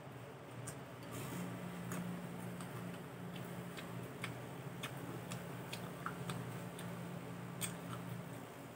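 Close-up chewing of a crisp cucumber slice: irregular crunchy clicks, about two a second. A steady low hum sits underneath from about a second in until near the end.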